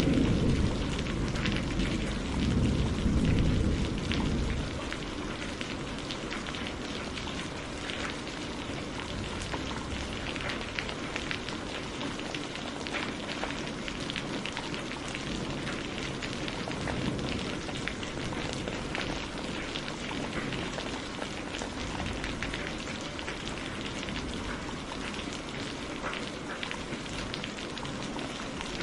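Steady rain falling, with a low rumble of thunder dying away over the first few seconds. Scattered short crackles run through the rain hiss.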